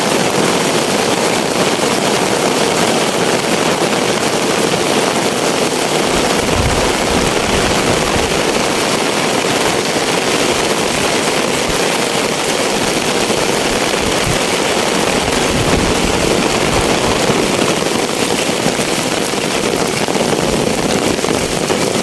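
Heavy rain pouring steadily onto roofs and the ground, a loud, dense hiss, with a few low rumbles partway through.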